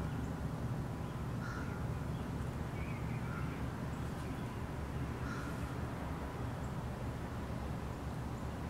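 Short bird calls repeated about half a dozen times at irregular intervals over a steady low background rumble.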